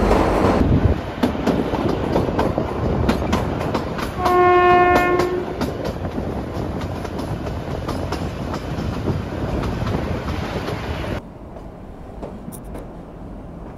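Kalka–Shimla narrow-gauge toy train running, with a steady rumble and wheels clicking over the rail joints. A little after four seconds in, the locomotive's horn sounds once for about a second. Near the end the running noise suddenly drops to a quieter level.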